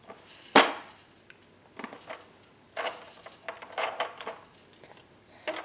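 Hard objects knocking and clattering: one sharp knock about half a second in, then several shorter rattling clatters.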